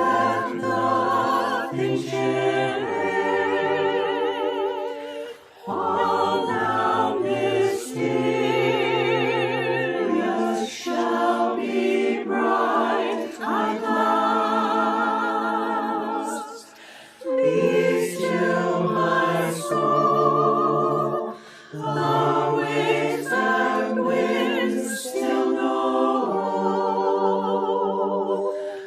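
A choir singing unaccompanied in several parts with vibrato. The phrases are broken by short pauses for breath.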